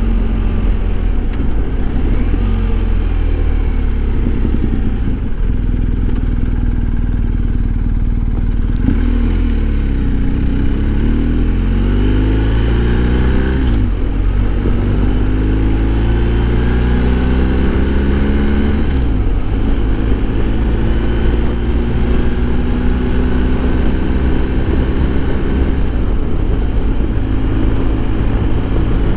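BMW R1250 GS Adventure's boxer-twin engine accelerating under way, its pitch climbing through the gears and dropping at upshifts about 9, 14 and 19 seconds in, then holding steady at cruising speed.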